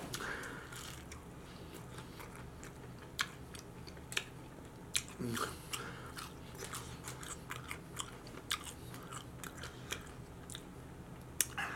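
Close-miked chewing of a crunchy fried onion ring dipped in ranch, with irregular crisp crunches and wet mouth clicks and smacks.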